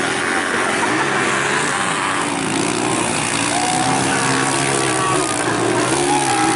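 Several motocross bikes' engines running on the track, their pitch rising and falling as the riders work the throttle, over a steady mixed engine noise.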